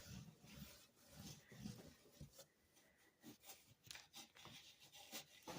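Near silence with faint, scattered scratches and rustles of a cat moving about inside a cardboard box.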